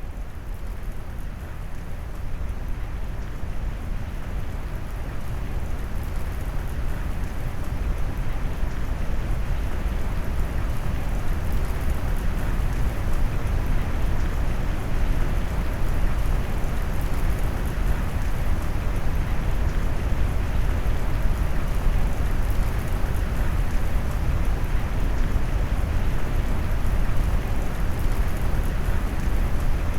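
Steady rain noise mixed with deep brown noise, heavy and rumbling in the low end, swelling up over the first several seconds and then holding even.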